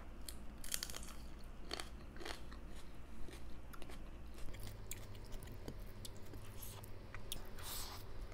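Close-miked chewing and biting of pork curry and vegetables: quiet, irregular wet mouth clicks and small crunches, a few a second.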